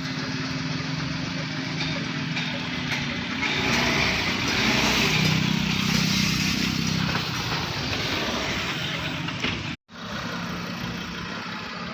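A motor running steadily, with a hiss that grows louder for a few seconds in the middle. The sound drops out abruptly for an instant near the end.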